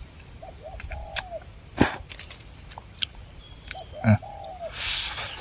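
Eating honeycomb: scattered wet mouth clicks and smacks from chewing. Two short high whining calls from an animal are heard, one about a second in and one about four seconds in.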